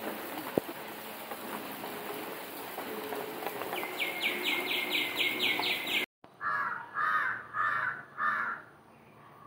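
Birds calling in the open: a rapid run of high chirps, about four a second, over steady hiss, then four loud calls in a row, each about half a second long. A sharp click comes near the start.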